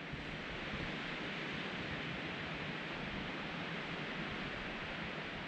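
Steady rushing of wind through the forest trees, an even hiss with no let-up.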